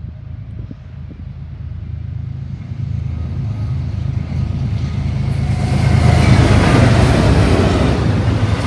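Diesel freight train with empty hopper cars: a steady low engine rumble and rolling wheel-on-rail noise that grow louder through the stretch, loudest about six seconds in.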